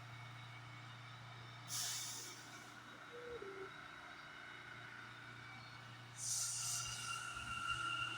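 New York City subway train's air brakes hissing in two short bursts, about two seconds in and again about six seconds in, over a steady low hum. After the second hiss a steady whine sets in and keeps on.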